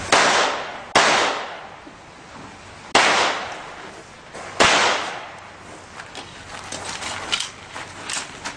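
Four pistol shots fired during a timed competition stage, the first two about a second apart and the next two about two and a half and four and a half seconds in, each trailing off with echo. Fainter sharp ticks follow in the last few seconds.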